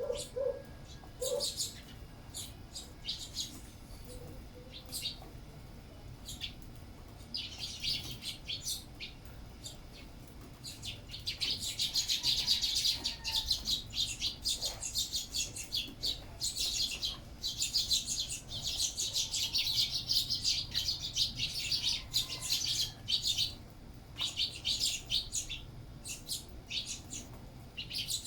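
A flock of sparrows chirping as they feed: many short, high chirps, scattered at first, then a dense, busy chatter through the middle that thins out again near the end.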